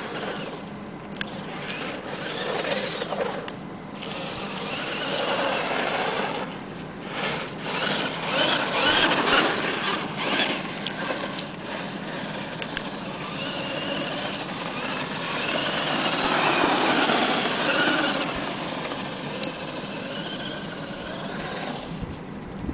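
Traxxas E-Maxx electric RC monster truck driving, its motors and gears whining in a pitch that rises and falls with the throttle, over the rumble of tyres on the ground. The sound drops away near the end.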